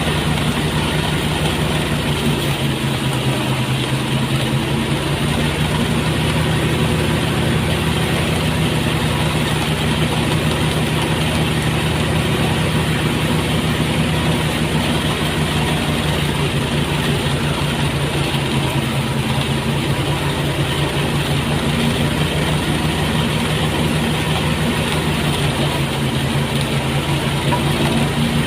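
Engine-powered rice threshing machine running steadily: a constant engine hum under an even rushing noise.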